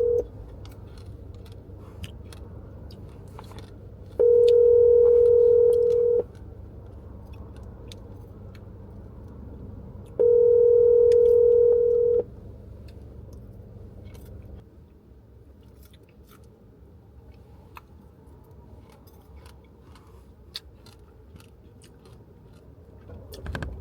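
Telephone ringback tone of an outgoing call heard from a phone's speaker: a steady tone that rings for about two seconds, then stops for about four. One ring ends as it starts, and two more follow.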